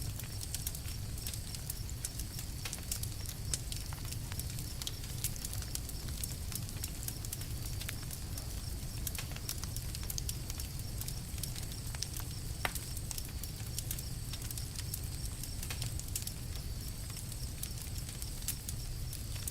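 Campfire crackling: frequent irregular sharp pops and snaps, a few louder than the rest, over a steady low rumble.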